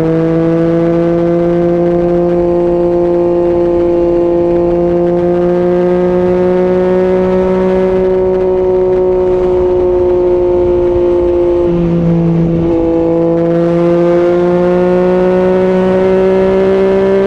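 Yamaha MT-09's three-cylinder engine through an Akrapovic exhaust, pulling under steady throttle with its note slowly rising. A gear change breaks the note about twelve seconds in, then it climbs again.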